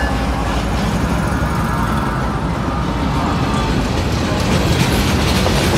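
CSX freight train passing close by: the rumble of its GE diesel locomotives going past gives way to freight cars rolling by, with wheel clicks over the rail joints growing more distinct near the end.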